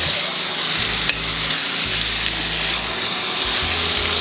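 Chicken pieces sizzling as they fry in a pot of onion-tomato masala, being stirred, with one sharp knock about a second in.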